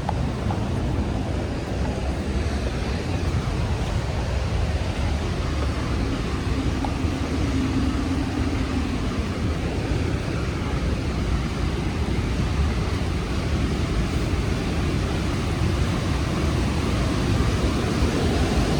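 The Rhine Falls' steady roar of falling water, with a deep low rumble. A faint low hum rises through it for a few seconds near the middle.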